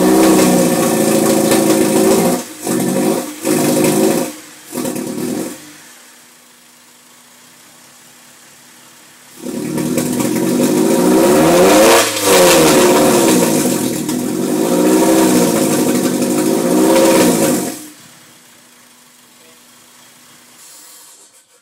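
Car engine running rough, its pitch swinging up and down. It stutters in short bursts and dies about five seconds in, runs again from about nine seconds, and cuts off near the end. It sounds wrong after a hard start, and the noise stays the same with the cold air intake disconnected.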